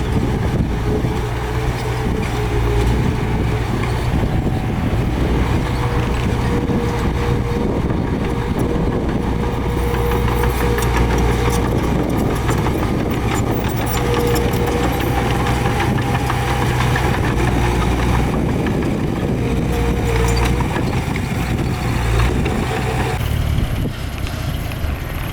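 Heavy diesel earthmoving machinery running: a steady low engine drone with a held whine and scattered clanks. The level drops a little near the end.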